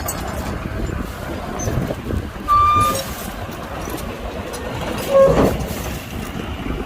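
Heavy machinery engine running with a steady rumble, broken by two short horn toots, one about two and a half seconds in and a lower one about five seconds in.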